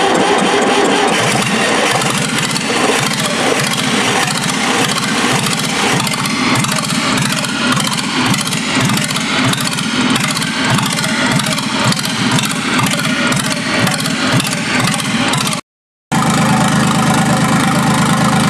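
QC385 diesel engine (85 mm bore, 32 hp) running with a fast, even diesel clatter just after catching on its first-ever start. About three-quarters of the way through the sound cuts out for half a second, and after it the engine runs more smoothly and evenly.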